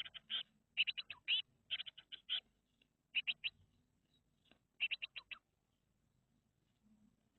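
Blue tits chirping in quick clusters of short, high calls, five bunches in about five seconds, then quiet for the last two seconds.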